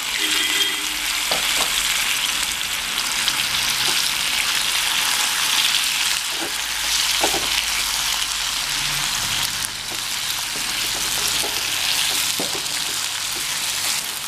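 Drumstick pieces and freshly added tomatoes sizzling steadily in a little hot oil in a kadai as they are sautéed, stirred with a wooden spatula that now and then knocks and scrapes against the pan.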